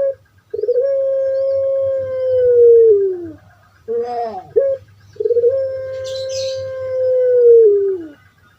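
Puter pelung (Barbary dove) cooing: a burst of short, falling rolling notes and two long drawn-out coos, each held on one pitch for about three seconds before falling away at the end. A faint high chirp comes about six seconds in.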